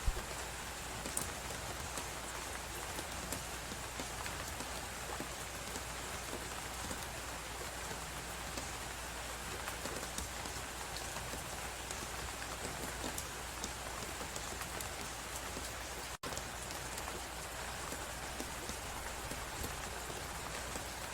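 Wood fire crackling in a fireplace, with scattered sharp pops over a steady hiss. The sound drops out for an instant about sixteen seconds in.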